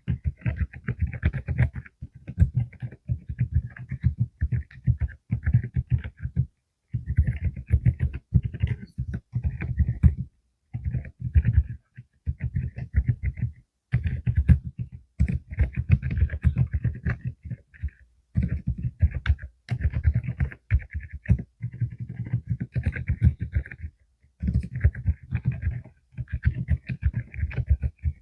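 Typing on a full-size mechanical keyboard with Deep Sound low-noise switches (45 g): quick runs of soft, low keystrokes with brief pauses between them.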